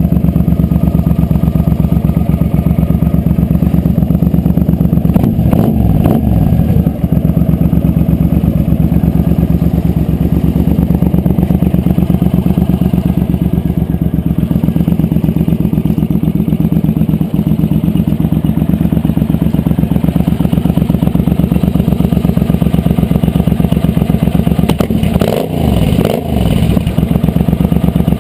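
2006 Suzuki Boulevard M50's V-twin running at idle through Cobra slash-cut exhaust pipes, a steady, even exhaust pulse. Twice, around six seconds in and again near the end, the sound briefly wavers.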